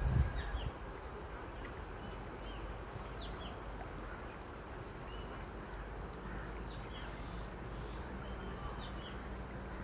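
Outdoor ambience: a steady background noise with a low hum, and short high chirps every second or so. A brief thump right at the start.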